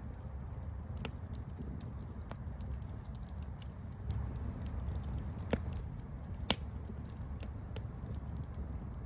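Campfire burning, with a steady low rumble of flames and irregular crackles and pops of burning wood; the sharpest pop comes about six and a half seconds in.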